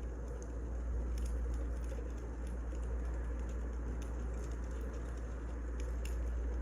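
Firewood burning in a fire: irregular sharp crackles and pops over a steady low rumble.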